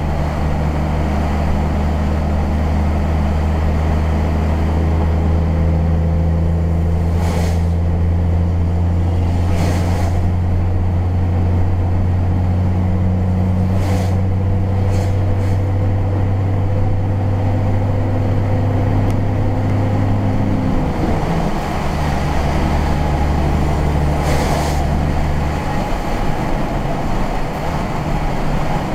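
Vehicle engine and road noise heard from inside the cab while driving: a steady low engine drone whose note changes about 21 seconds in, with a few brief knocks from the road.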